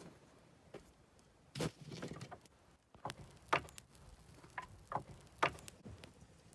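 Wood being handled during shelter building: about six sharp, irregular knocks and cracks of branches or poles, three of them louder than the rest.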